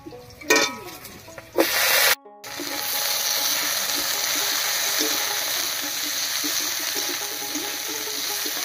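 Cut green mango sizzling in hot mustard oil in a karahi with fried garlic and green chillies. A few short, loud hisses come in the first two seconds, then a steady sizzle starts after a brief break about two and a half seconds in.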